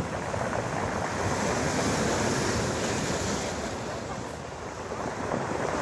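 Storm surf breaking and washing over a beach of large pebbles, a continuous rush that swells, eases about four seconds in, and builds again, with wind buffeting the microphone.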